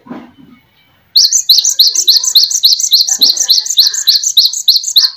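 Songbird singing a rapid, even series of high chirps, about four a second, starting abruptly about a second in and lasting some four seconds.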